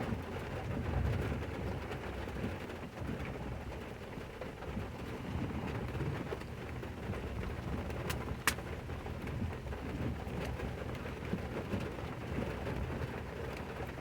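Steady rain with a low rumble underneath, and two sharp clicks a little past eight seconds in.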